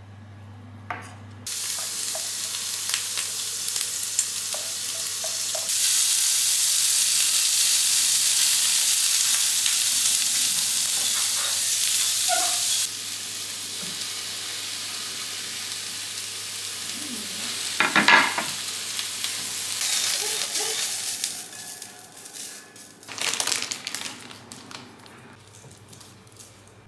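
Food sizzling as it fries in a pan: a steady hiss that jumps louder about six seconds in and drops back about halfway through, with a few short clatters of utensils near the end.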